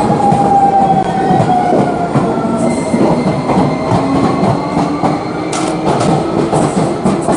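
Electric commuter train running on rails, its wheels clattering over the track, with a whine that slides down in pitch. A brighter hiss joins in about five and a half seconds in.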